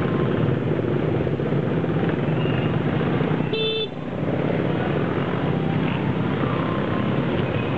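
Steady rumble of motorbike engine and city traffic while riding, with one short horn beep about three and a half seconds in.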